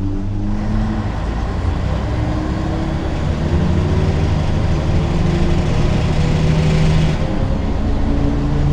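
Ikarus 280 articulated city bus's diesel engine pulling under acceleration. Its pitch climbs steadily for about six seconds, falls back about seven seconds in as at an upshift, then pulls on.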